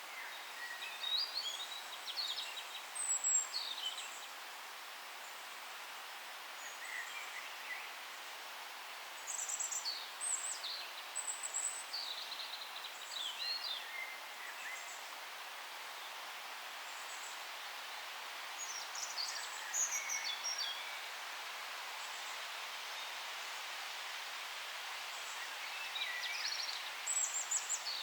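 Forest ambience: a steady background hiss with several songbirds chirping and trilling in short high-pitched bursts, some louder spells a few seconds apart.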